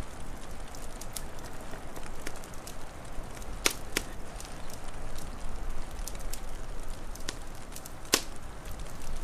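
Wood fire crackling: a steady hiss with scattered sharp pops, the loudest a few seconds in and again near the end.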